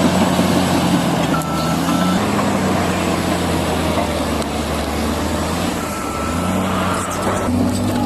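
Heavy diesel machine engine running steadily under load. A thin high whine sounds twice over it, briefly about 1.5 s in and longer near the end.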